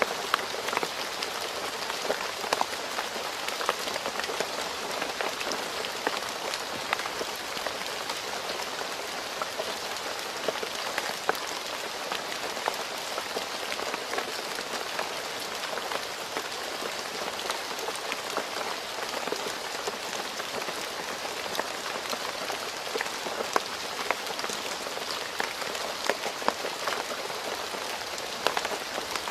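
Steady rain falling on a road surface, a constant hiss with many individual drops pattering and ticking throughout.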